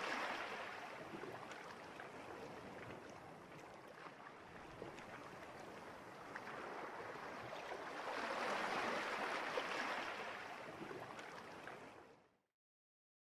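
Rushing water like waves washing in, swelling, easing off and swelling again, then fading out about twelve seconds in.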